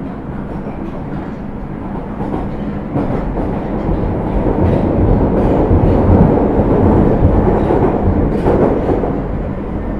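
Osaka Metro 30000 series subway train (Hitachi SiC-VVVF inverter control) running, its noise growing louder about three seconds in and easing off again near the end.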